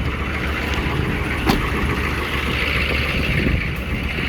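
6.5-litre V8 diesel of a 1995 Chevy 3500 dump truck idling steadily while still cold, shortly after a cold start. A single short knock sounds about a second and a half in.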